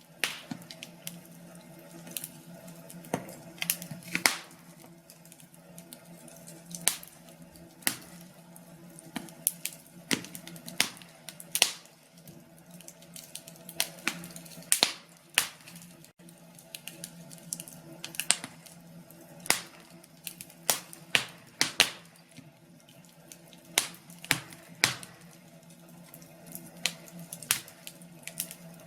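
Wood fire crackling and popping in a fireplace: irregular sharp snaps, a few loud ones, over a faint steady low hum.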